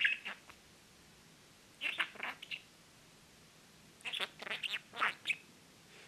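Talking budgerigar chattering in three short, scratchy, warbling bursts: at the start, about two seconds in, and a longer run about four to five seconds in.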